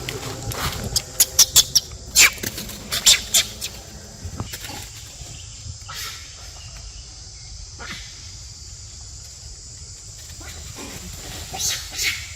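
Pig-tailed macaques calling with short, sharp squeaks: a quick run of them in the first few seconds, a few scattered ones after, and two more loud ones near the end.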